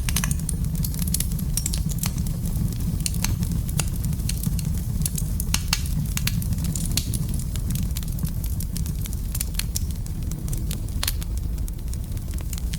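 Wood fire burning in a fireplace: a steady low rumble of flame with frequent sharp crackles and pops scattered irregularly.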